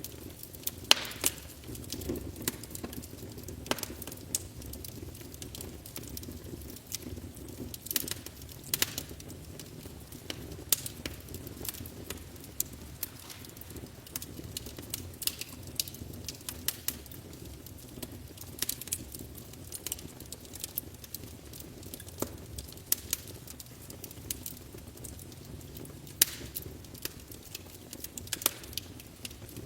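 Wood fire burning in a fireplace, crackling with irregular sharp pops over a low, steady rumble of the flames.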